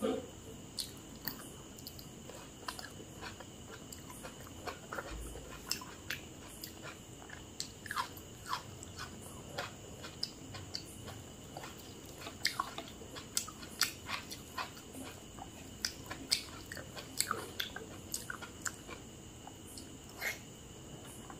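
A person chewing and biting food close to the microphone, with irregular wet mouth clicks and occasional crunches, over a faint steady high-pitched hum.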